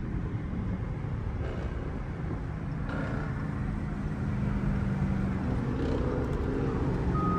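Car driving at highway speed: steady engine drone and road noise. A short high beep comes near the end.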